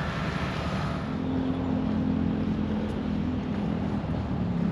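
A motor engine running steadily, a low hum that grows stronger about a second in, over steady outdoor background noise.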